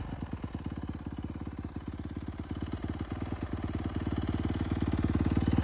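Yamaha YZ250F's single-cylinder four-stroke engine idling after being revved, with a steady, even beat that grows gradually louder towards the end.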